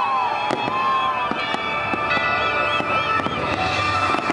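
Display fireworks going off: a dense run of sharp bangs and crackles from bursting shells and waterfront fountains.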